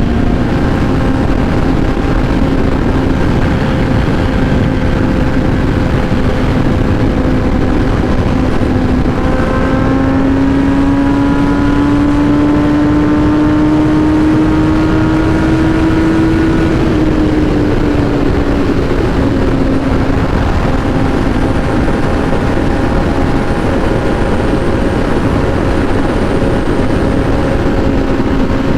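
A motor vehicle's engine running at a steady cruising pace under a loud, even rush of wind and road noise. About a third of the way in its pitch climbs slowly, then eases back down and holds steady.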